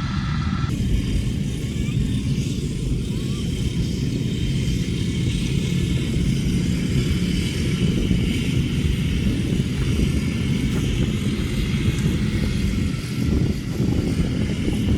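Motorcycle engines running steadily as the bikes ride along.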